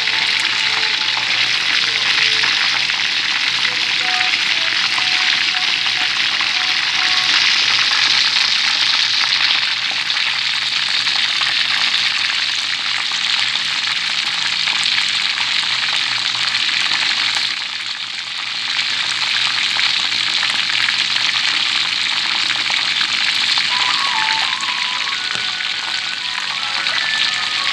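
Chicken wings sizzling in hot oil in a shallow aluminium pan as they brown. It is a steady hiss that dips briefly about two-thirds of the way through.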